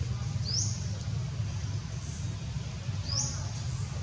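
A bird's short, high, rising chirps, two clear ones and a few fainter ones, over a steady low rumble.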